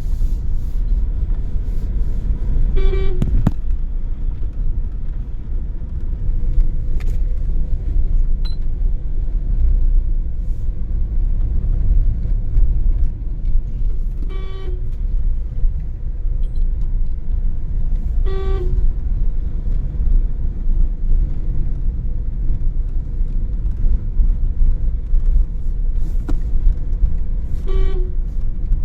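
Steady road rumble of a car driving, with four short toots of a vehicle horn, all at the same pitch: a few seconds in, about halfway, shortly after that, and near the end.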